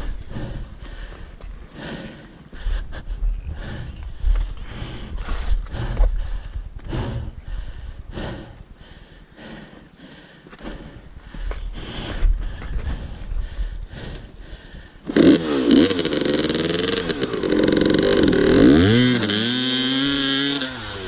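A two-stroke dirt bike engine revving hard from about 15 seconds in, its pitch rising and falling repeatedly as it is blipped and loaded. Before that there are scattered knocks and scrapes over a low rumble.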